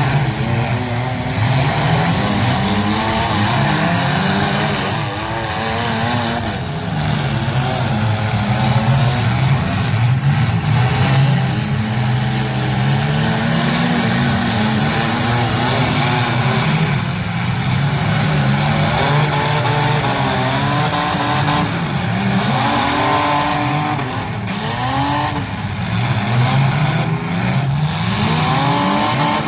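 Several front-wheel-drive demolition derby cars' engines revving hard and dropping back again and again, overlapping one another as the cars spin their wheels in the mud and ram each other.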